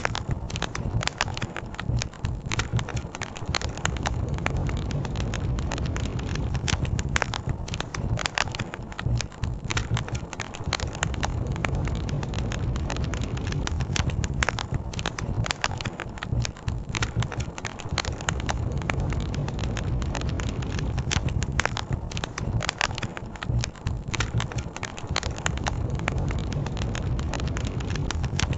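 Campfire burning and crackling, with frequent irregular sharp pops over a steady low rumble.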